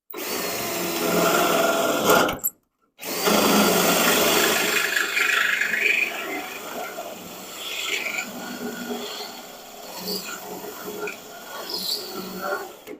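Power drill with a 1/8 inch bit boring through spot welds in a 1969 Dodge Charger's sheet-metal quarter panel. It cuts out completely for about half a second near two and a half seconds in, comes back loud, then after about six seconds turns quieter and more broken, with scattered ticks.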